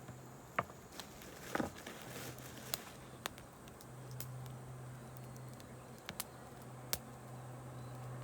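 Wood campfire crackling: scattered sharp pops at irregular intervals, a quick cluster of them about one and a half seconds in, over a low steady hum.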